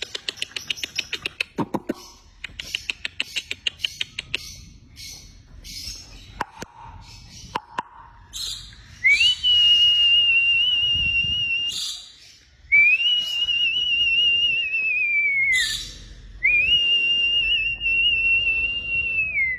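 A parrot makes a fast run of clicks and short chirps, then gives three long, steady, high whistles of about three seconds each, slightly wavering in pitch.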